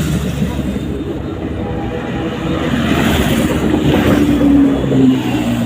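Superbike engine running as the motorcycle rides past. There is a rush of passing noise midway and a slight drop in engine pitch near the end.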